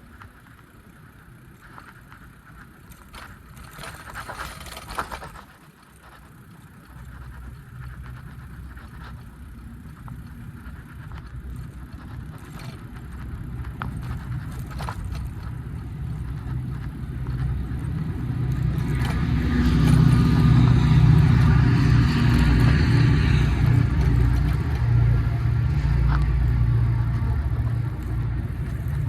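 A motor vehicle's engine running with a low hum that grows steadily louder over about twenty seconds, joined by a rushing noise at its loudest. There is a short clatter a few seconds in.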